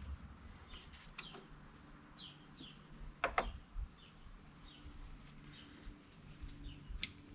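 Faint birds chirping in the background, short high chirps about once a second, with a pair of sharp clicks a little over three seconds in.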